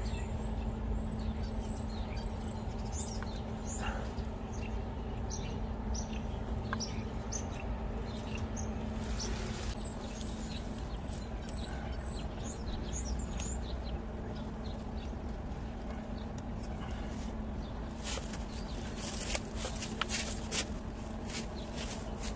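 Birds chirping, a quick run of short high chirps, over a steady low hum. A few sharp clicks and knocks come near the end.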